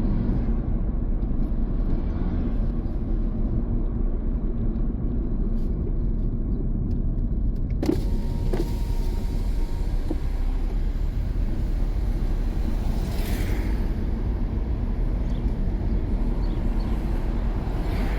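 Car driving: a steady, low rumble of tyres and engine. A sharp click comes about eight seconds in, followed by a few fainter clicks.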